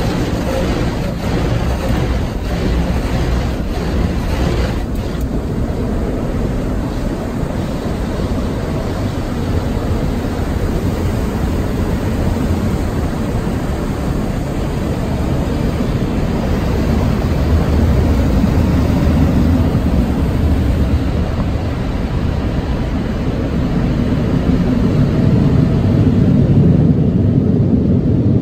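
Automatic tunnel car wash heard from inside the car: a loud, steady rush of water spray and wash machinery against the body, with rapid spattering in the first few seconds and a heavier low rumble in the last third.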